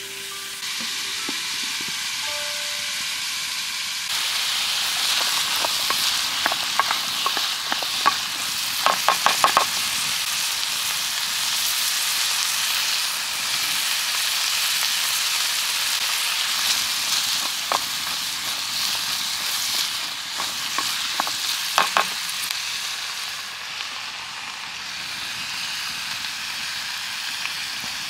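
Food frying and sizzling steadily in a hot pan, with clusters of sharp clicks and taps from a utensil stirring against the pan.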